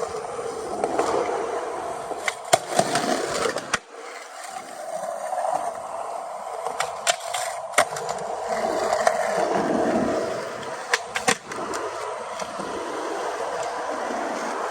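Skateboard wheels rolling on pavement, with several sharp clacks of the board popping and landing: a few in a cluster about two to four seconds in, more around seven to eight seconds, and a pair near eleven seconds.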